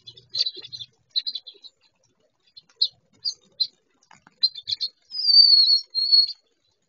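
Birds chirping: many short, high chirps in quick clusters, then a longer wavering high call about five seconds in, the loudest sound.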